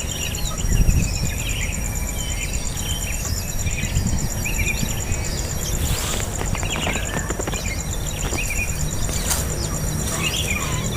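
Small birds chirping in short, quick calls over a steady, high, pulsing insect trill, with a constant low rumble underneath.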